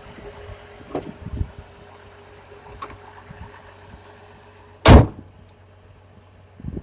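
The jump-started GMC Envoy's engine idling steadily, with a few light clicks and then one loud slam about five seconds in.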